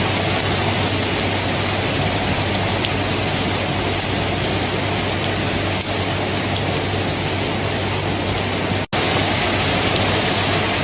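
Steady, dense rainfall, with a split-second gap in the sound about nine seconds in.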